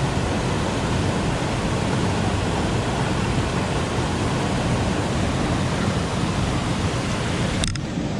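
Steady, loud rush of a mountain stream's flowing water, an even noise without pauses.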